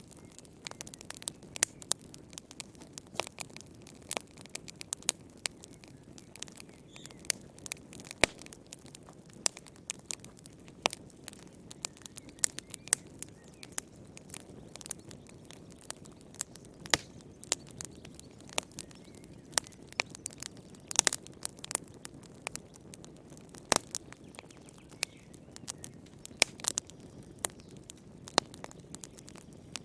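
Wood campfire crackling: irregular sharp snaps and pops, a few of them loud, over a low steady rush of the flames.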